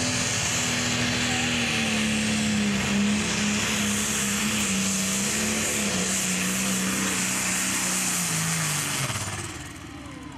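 Pro Stock pulling tractor's turbocharged diesel engine running flat out under load as it drags the sled, its pitch sagging slowly, then the engine speed and loudness dropping away sharply near the end as the pull finishes.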